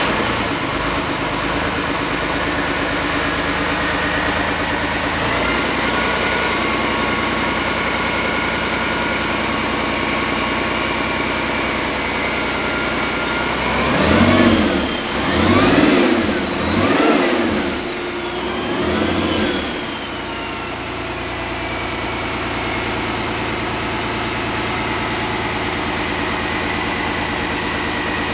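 Freshly overhauled Deutz F12L413 air-cooled V12 diesel engine running at a steady idle, with a high whine over the engine note. About halfway through it is revved four times in quick succession, each rev rising and dropping back, then it settles to idle again.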